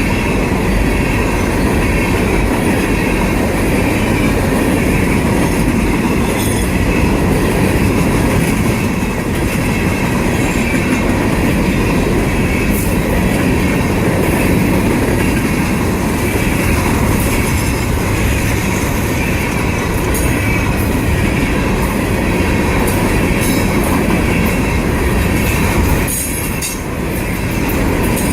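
Empty freight cars of a long train rolling past: a loud, steady rumble and clatter of wheels on the rails, with clicks from rail joints and a continuous high wheel squeal. The sound dips briefly about 26 seconds in.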